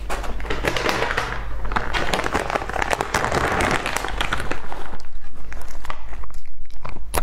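Close-miked chewing of flaky sesame pastry, wet and crackly, followed from about halfway in by a thin plastic packet crinkling loudly as it is handled.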